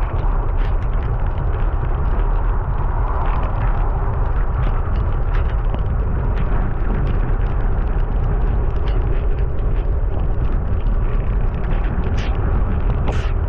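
Steady, heavy wind rumble buffeting the microphone of a moving bicycle, mixed with the hiss of tyres on a wet road.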